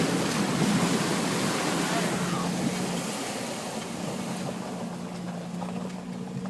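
Pickup truck driving through a shallow stream: water splashing and rushing around it over the engine's steady hum. The splashing eases off from about three seconds in while the engine hum carries on.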